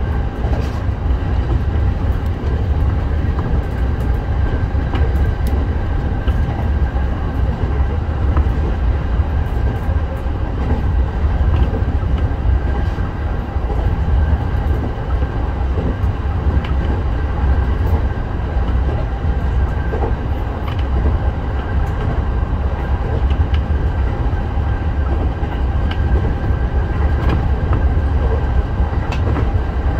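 Electric train running along the line, heard from inside the car behind the driver's cab: a steady heavy rumble with a steady whine on top, and now and then faint clicks of the wheels over rail joints.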